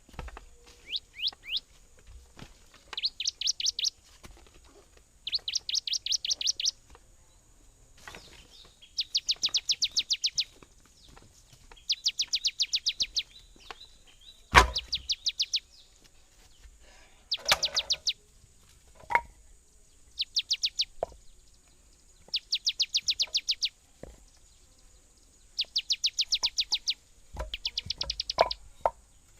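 A songbird singing repeated trills: bursts of rapid, evenly spaced high notes, each about a second long, every two to three seconds. A single sharp knock sounds about halfway through.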